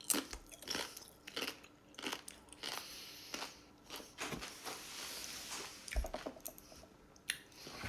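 A person biting into and chewing a crisp chip topped with pickle salsa, a string of crunches repeating about every half second to a second.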